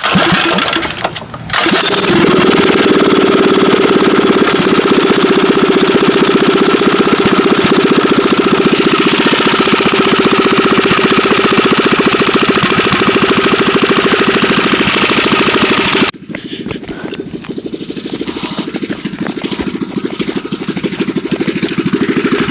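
An engine fitted with a new, loud exhaust is started: it fires, stumbles for a moment about a second in, then catches and runs loud and steady. About 16 seconds in it drops abruptly to a quieter running idle that slowly builds again.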